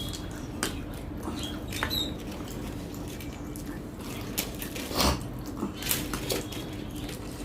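Sounds of a meal eaten by hand: chewing and mouth noises with scattered small clicks, and one louder knock about five seconds in, over a steady low hum.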